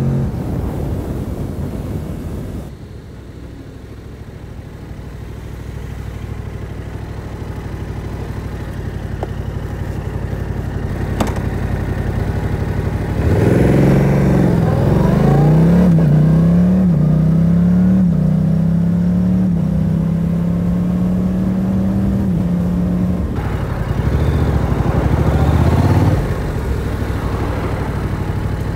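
Yamaha R7's parallel-twin engine running at low revs, then accelerating hard about halfway through. The note climbs and drops back several times in quick succession as it shifts up through the gears, then eases off near the end.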